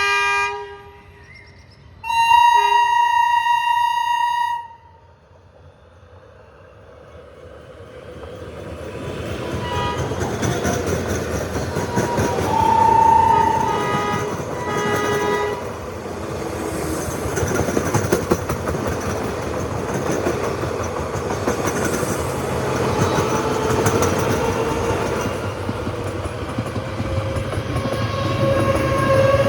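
A three-phase AC electric multiple unit local train sounds its horn, a short note and then a longer blast of about two and a half seconds. It then pulls away and accelerates, its running noise building with a whine from its traction motors rising in pitch as it gathers speed.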